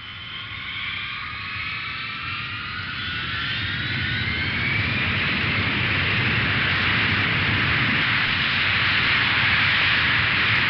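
Jet airliner engines spooling up: several whining tones rise in pitch over the first few seconds, then merge into a rushing jet noise that keeps growing louder.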